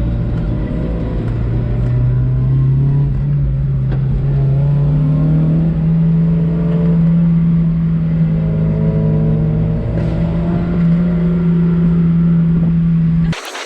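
Car engine running under load, its pitch rising over the first few seconds and then holding steady at high revs; the sound cuts off abruptly just before the end.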